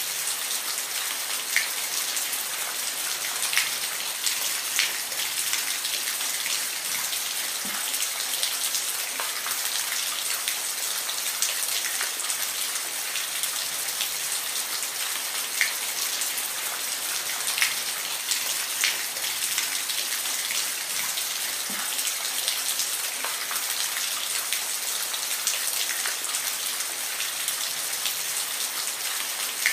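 Steady rain falling, a dense even hiss with scattered louder individual drops ticking on a surface.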